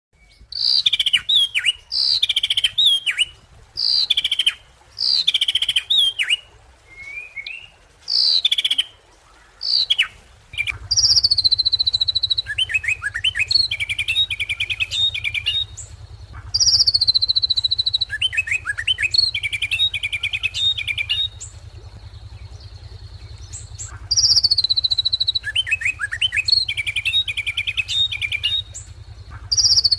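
Ashy drongo singing. First comes a run of short phrases of high whistled notes that slide downward, about one a second. About ten seconds in it changes to longer phrases that open with a high drawn note and break into rapid chattering trills, repeated every several seconds. A steady low hum starts about ten seconds in.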